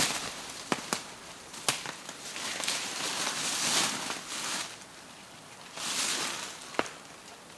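Dry wood snapping: several sharp cracks, a few close together in the first two seconds and one more near the end, with rustling swelling and fading between them.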